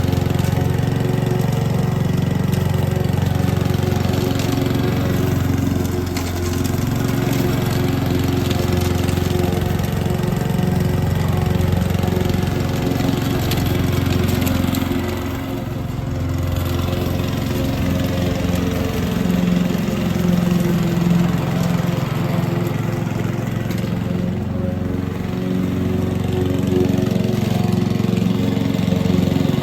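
Petrol lawn mower engine running steadily under load, its sound dipping slightly twice, near the middle and about two-thirds through.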